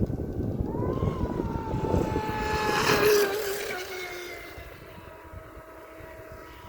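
Pro Boat Sonicwake V2 RC speedboat's brushless motor whining at high speed as it passes by. The whine grows louder and peaks about three seconds in with a hiss of spray, then drops in pitch and fades as the boat runs away. A low rumble of wind and choppy water fills the first half.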